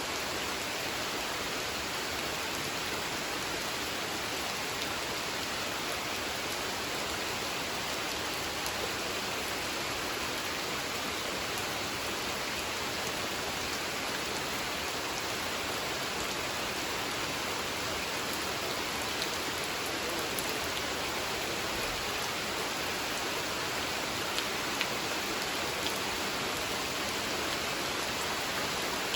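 Steady rain falling on a spring-fed pond: an even hiss of countless drops, with a few louder single drops standing out in the last few seconds.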